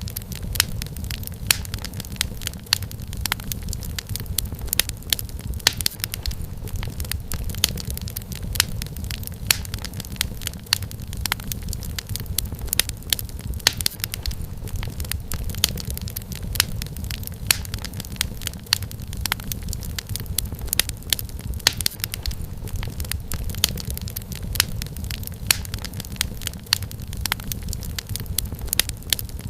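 Wood fire crackling steadily, with many sharp irregular pops and snaps over a low, even rumble of flame.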